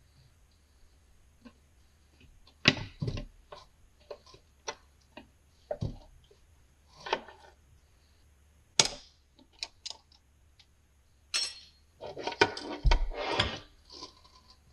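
Irregular clinks and knocks of steel parts being handled and set down during a transfer case teardown, with a burst of denser clattering near the end.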